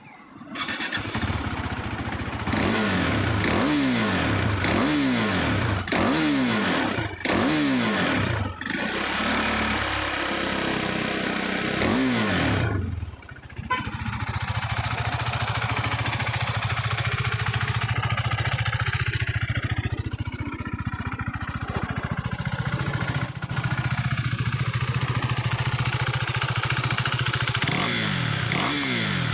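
KTM 390 Duke single-cylinder engine through an Akrapovič slip-on silencer, coming to life about half a second in. The throttle is blipped in a quick series of revs, then the engine settles into a steady idle about halfway through, with one more rev near the end.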